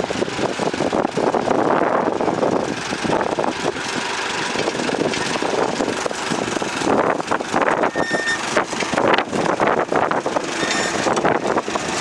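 Fordson Model N tractor's four-cylinder engine running steadily with a rough, rapid firing beat.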